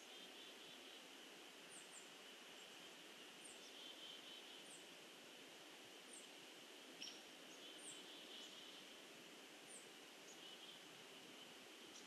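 Near silence: faint steady hiss with high, thin bird calls about once a second and a few short chattering notes. There is one slightly louder sharp note about seven seconds in.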